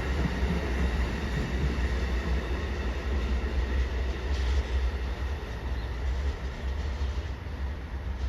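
Train passing on the track: a steady rumble and rail noise that eases off a little near the end.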